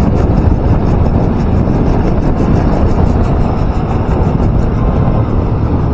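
Steady, loud wind rush and road noise from a moving motorcycle.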